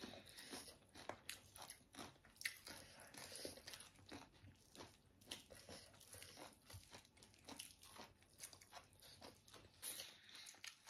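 Faint crunchy chewing and biting of singju, a salad of shredded raw cabbage with roasted beans, with many small irregular crunches and clicks.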